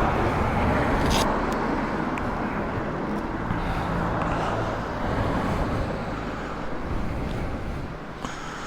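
Road traffic passing on a wet road, a steady tyre hiss that slowly fades, with a sharp click about a second in and another near the end.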